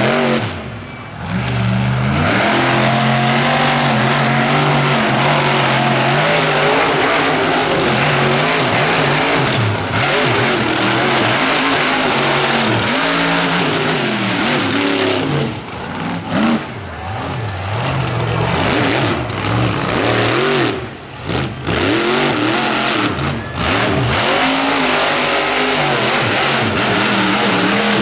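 Monster truck engine running loud and revving hard, its pitch climbing and falling again and again, with a few brief lifts off the throttle past the middle.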